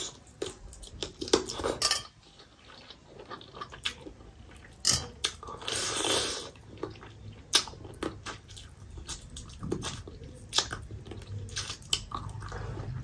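Close-miked eating sounds: chewing a mouthful of rice and chicken curry, with wet lip smacks and a string of short clicks. There are a few louder bursts, about two and six seconds in. Fingers work rice on a steel plate.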